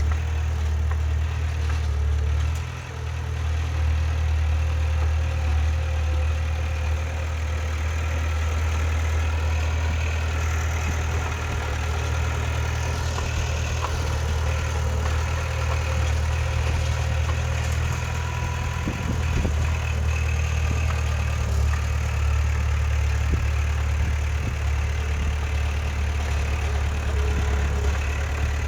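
Heavy earthmoving machine's diesel engine running steadily at a low, even hum, dipping briefly about three seconds in.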